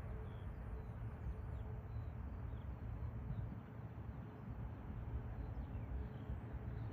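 Steady low rumble with a faint high tone, and small birds chirping faintly now and then.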